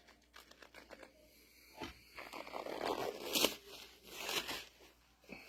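Handling noises on a workbench: light clicks, a knock about two seconds in, then a stretch of crinkling and rustling with two sharper bursts.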